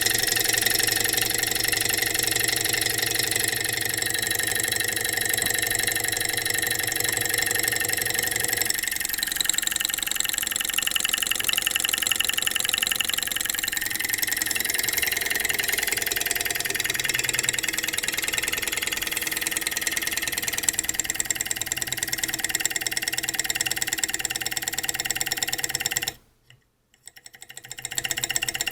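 Stirling engine running fast and steadily. Its sound changes about nine seconds in, when the lowest part falls away, and it cuts out for about a second and a half near the end before coming back.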